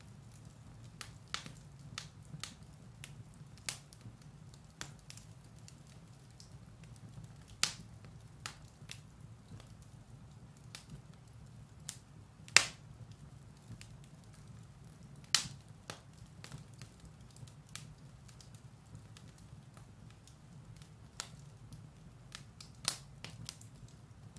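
Firewood burning in a fireplace, crackling with scattered sharp pops at irregular intervals, the loudest about halfway through, over a faint steady low hum.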